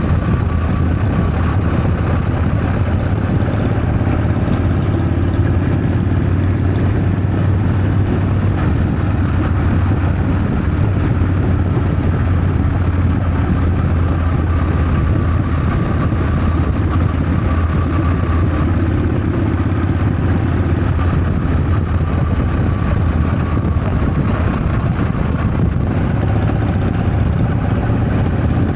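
Harley-Davidson Sportster's air-cooled V-twin engine running steadily while the motorcycle is ridden, a constant low hum with no change in pace.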